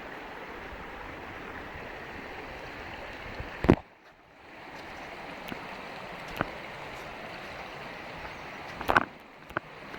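Steady rushing of a waterfall, with a sharp knock about four seconds in and another near the end, each followed by a brief drop in the sound.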